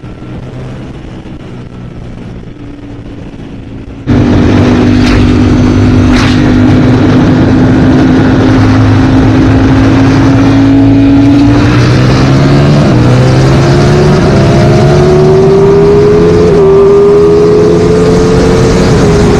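Ducati Streetfighter V4S's 1103cc Desmosedici Stradale V4 engine heard from a helmet-mounted microphone while riding. About four seconds in the sound jumps much louder, with heavy wind rush over the engine. The engine note holds steady, then rises in pitch as the bike accelerates, with a brief dip near the end.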